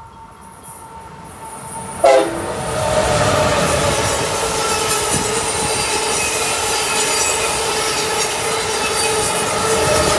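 Amtrak Acela Express trainset sounding one very short horn toot about two seconds in. It then passes close by with a steady, loud rushing noise and a high whine.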